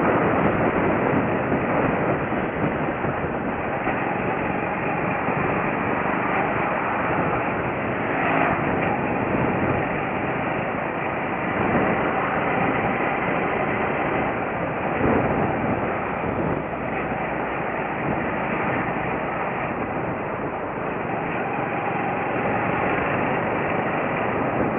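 Motorcycle riding noise: engine and rushing air in a steady, dense roar with small swells in level.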